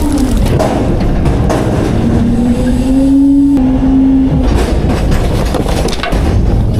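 Autocar-Heil Freedom half-pack front-load garbage truck running hard over a low rumble while it packs garbage, its hum rising in pitch from about two seconds in and dropping away a little after halfway.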